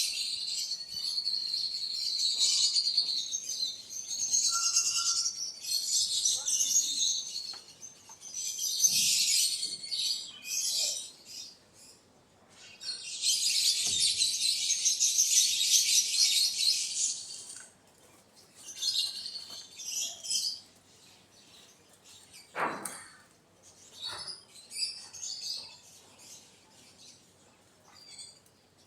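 Many small birds chirping in dense, high-pitched bursts, thinning to shorter spells in the second half, with a single knock about two-thirds of the way through.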